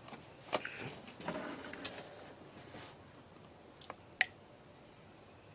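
A few scattered sharp clicks and light knocks, the loudest about four seconds in.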